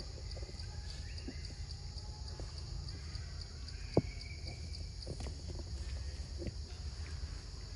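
Jungle ambience: a high, steady, pulsing insect chorus repeating about four times a second over a low rumble, with scattered clicks and snaps and one sharp click about four seconds in.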